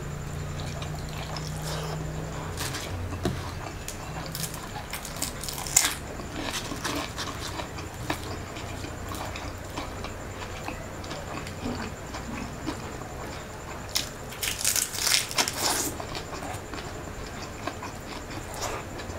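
Close-up eating sounds: a person chewing with wet mouth sounds and scattered small clicks and smacks. A denser run of crisp, crunchy bites comes about three quarters of the way through.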